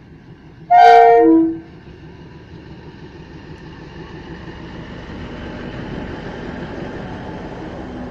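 A DEMU (diesel-electric multiple unit) train sounds one short horn blast, about a second long, dropping in pitch at its end. Then comes the rumble of its coaches rolling past on the rails, growing louder as the train goes by.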